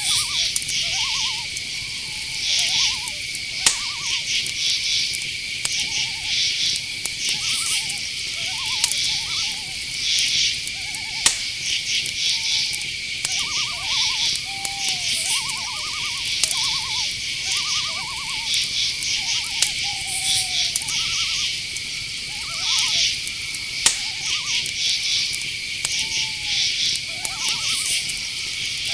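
Night insect chorus: a steady high cricket trill with pulsing bursts of chirping above it. Many short trilled calls overlap lower down, some falling in pitch. A few sharp clicks stand out, one about four seconds in and one near the middle.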